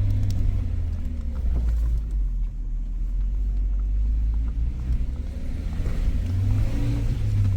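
Suzuki Jimny's engine running steadily at low speed with a low rumble as it crawls over a rocky off-road track, with a few faint knocks.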